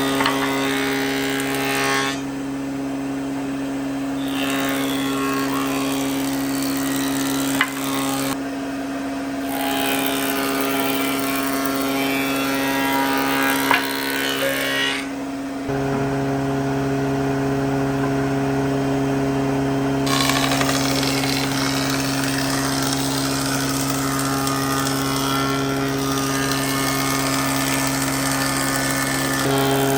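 Electric power tool running with a steady motor hum. Its tone shifts about halfway through, as if the load changes, and there are a couple of faint clicks.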